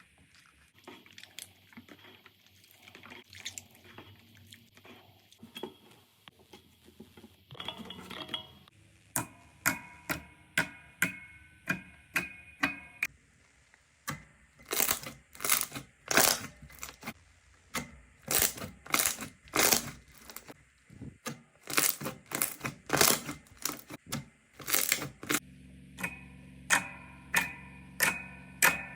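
Slime being squeezed and poked: soft, irregular crackling, then a run of sharp, sticky pops and clicks at about two a second, which get louder about halfway through.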